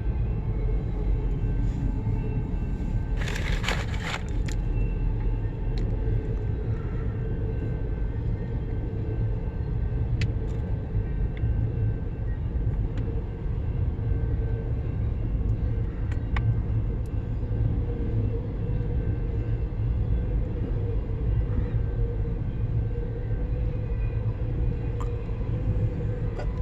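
CN Z148 intermodal freight train rolling past with a steady low rumble of wheels on rails as it picks up speed, a faint steady tone above the rumble. A brief hiss about three seconds in.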